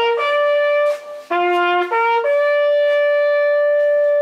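Natural hunting horn blowing a signal on only three notes of its harmonic series. Short low, middle and high notes step upward, then a long held top note.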